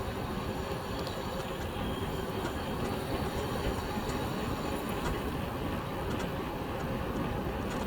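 Steady rumbling noise of an electric bike being ridden: wind on the microphone and tyres rolling on the road, with faint light clicks now and then.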